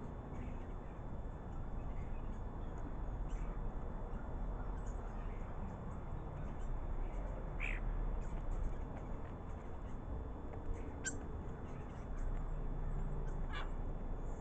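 A few short, scattered bird calls over a steady low background rumble.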